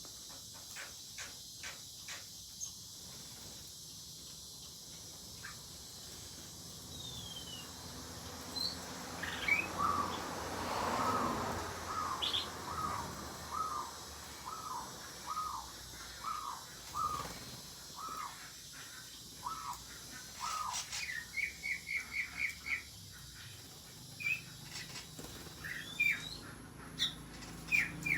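Several aviary birds calling. One bird repeats a single falling note about every two-thirds of a second for some ten seconds. A quick run of higher notes follows, then scattered short chirps.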